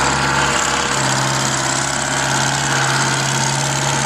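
Old Euclid rock truck's engine running with a steady note as it hauls a load of dirt.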